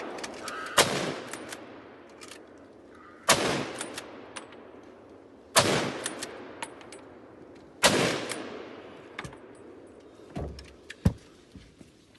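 Four gunshots, about two and a half seconds apart, each followed by a rolling echo that fades out. A couple of fainter knocks or clicks come near the end.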